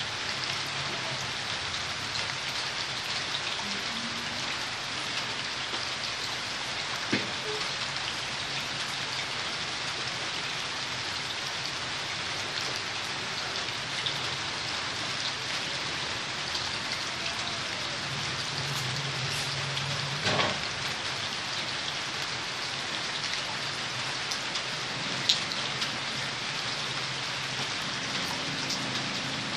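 Steady hiss with a faint low hum and a few scattered sharp ticks.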